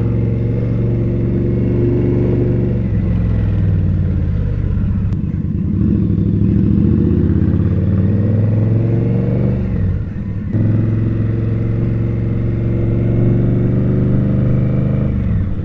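Indian Scout V-twin motorcycle engine running in city traffic: steady at first, then the pitch rises and falls as it pulls away and changes speed, with a brief drop about ten seconds in before it settles to a steady run again.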